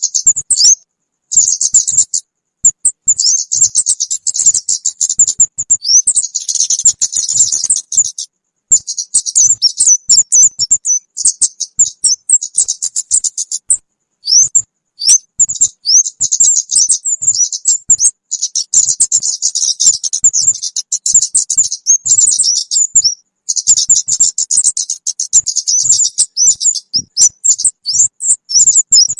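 Kemade bird lure call: rapid, high-pitched chirps and twitters in dense runs, broken by short pauses every few seconds.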